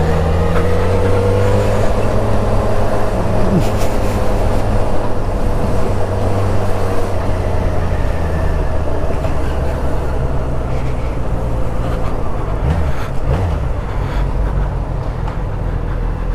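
Yamaha XJ6 motorcycle's inline-four engine running steadily under way at low speed, with road and wind noise.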